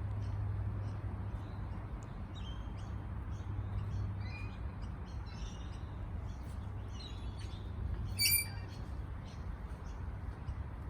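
A parrot chirping and tweeting in short scattered calls, with one louder, sharper call a little past eight seconds in, over a steady low hum.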